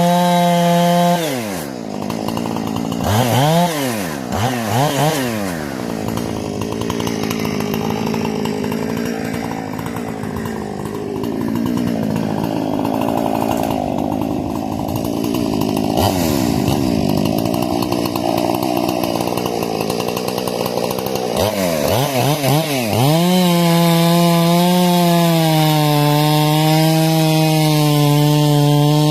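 Husqvarna 460 two-stroke chainsaw with a modified carburetor and muffler, revved to full throttle and blipped a couple of times, then bogged down for about fifteen seconds under load cutting through wood. Near the end it comes out of the cut and screams steadily at full throttle.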